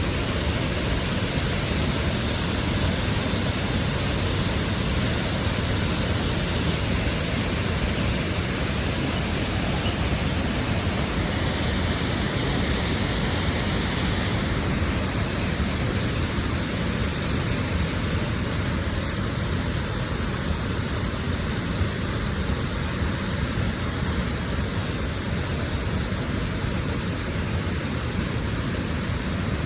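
Large waterfall pouring over a wide ledge into a stream: a steady, unbroken rush of falling water.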